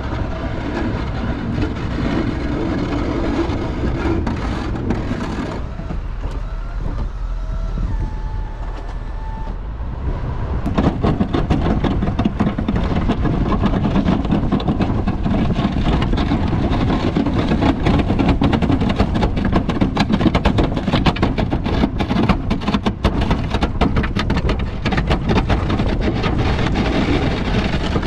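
A vehicle running steadily. About ten seconds in it grows louder and a dense, rapid clatter joins the engine noise.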